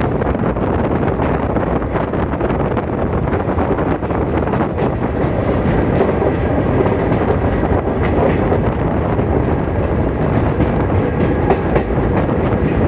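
Passenger train running along the track, heard from on board: a steady, loud rumble and clatter of wheels on rails.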